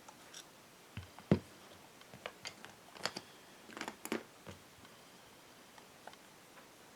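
A string of small, sharp clicks and knocks, the loudest about a second in, from carburettor parts and hand tools being handled during disassembly.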